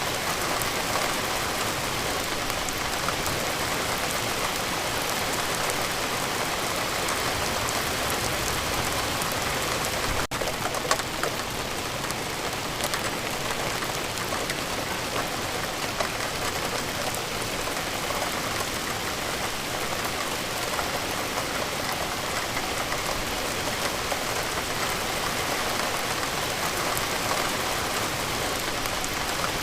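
Steady rain falling: an even hiss with scattered drop ticks, and a brief dip in level about ten seconds in.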